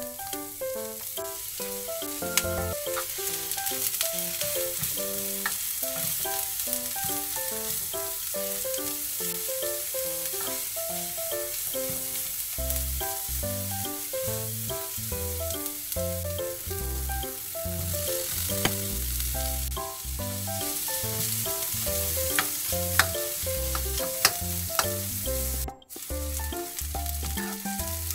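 Sliced green onion and diced Spam sizzling in hot oil in a nonstick frying pan, stirred with a plastic spoon that now and then clicks against the pan. Light background music with a steady pattern of notes plays along, and the sound breaks off for an instant near the end.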